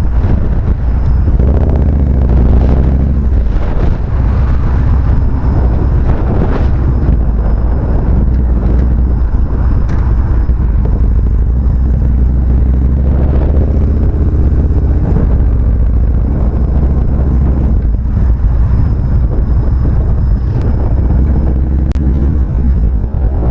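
Motorcycle engine running while riding, with heavy wind rumble on the microphone. The engine note rises a few times as the bike accelerates.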